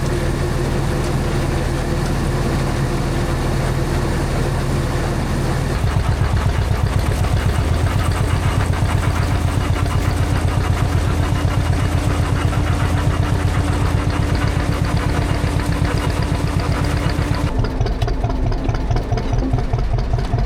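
Tractor engine running steadily; about six seconds in, the sound changes to a deeper, regular fast pulsing that carries on to the end.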